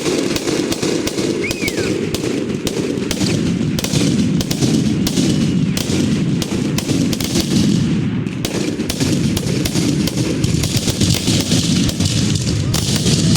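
A dense barrage of fireworks going off, a rapid, unbroken run of cracks and bangs over a low rumble of booms.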